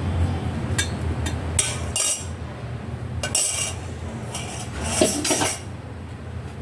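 Metal kitchen utensils clinking and scraping against cookware in a series of short irregular knocks, with a steady low hum underneath.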